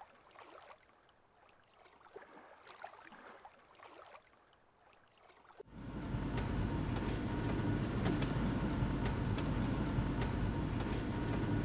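Faint, nearly quiet ambience with a few small scattered sounds. About halfway in, it cuts abruptly to a steady low rumble of a vehicle driving.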